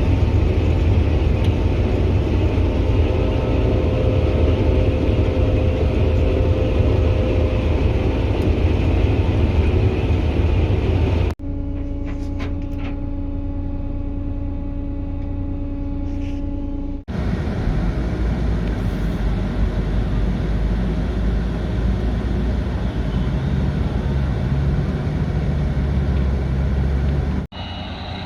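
Diesel engines of heavy harvest machinery running steadily, in clips that change abruptly about 11, 17 and 27 seconds in. Near the end a vehicle's reversing alarm starts beeping.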